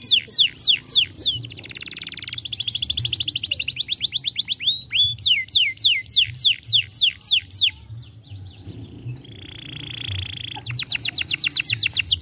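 Canary singing: fast runs of repeated downward-swept whistled notes, alternating with quicker rolled trills and a brief buzzy roll about ten seconds in.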